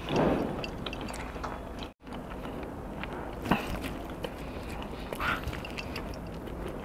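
Close-miked chewing and biting of a chicken pizza slice: wet mouth sounds with small clicks, and a louder burst right at the start. The sound cuts out for an instant about two seconds in.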